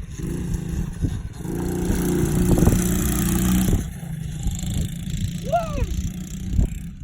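Dirt bike engine running, getting louder from about a second and a half in and falling back just before four seconds, as the bike is ridden past. A short high rising-and-falling call sounds about five and a half seconds in.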